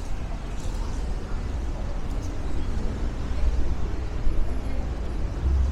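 Night city street ambience: a steady low rumble of wind and distant traffic.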